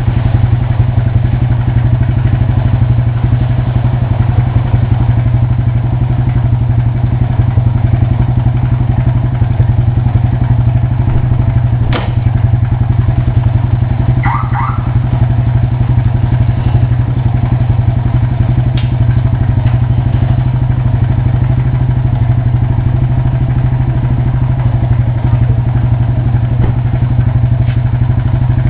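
Single-cylinder engine of a SYM Wolf motorcycle idling steadily in an even, low pulse, with a sharp gear-engagement clunk about twelve seconds in and a lighter one near nineteen seconds. The engagement clunk is louder than normal, which the owner puts down to the bike having sat a day without being started.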